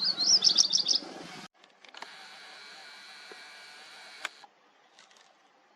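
A bird calling with a quick run of high chirps that stops after about a second. It is followed by a steady faint hiss with a thin high tone, cut off suddenly near the end.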